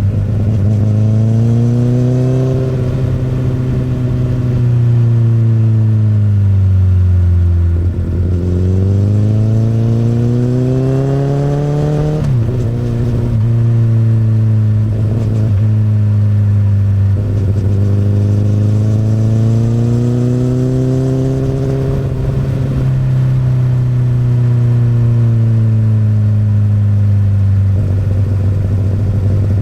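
2008 Honda CBR1000RR's inline-four engine through an Akrapovič exhaust, its pitch rising and falling with the throttle. About eight seconds in it climbs steadily for several seconds, then drops suddenly, as at a gear change or the throttle shut.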